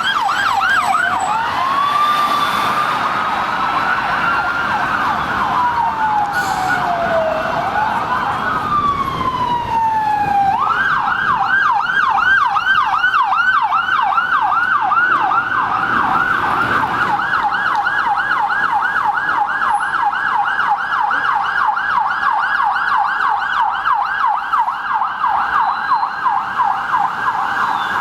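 London police car's electronic siren: a brief fast yelp, then a slow rising and falling wail. About ten seconds in it switches to a fast yelp of about three to four sweeps a second, which keeps going steadily, over traffic noise.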